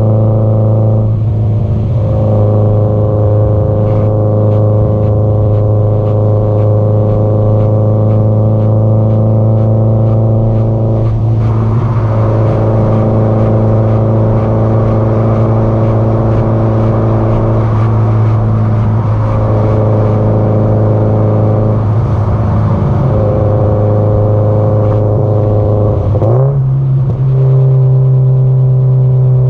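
Subaru Impreza WRX STI (GDB-E) turbocharged flat-four's exhaust note through its muffler, running at steady cruising revs with a few brief throttle lifts. Near the end the pitch steps up suddenly as the revs rise.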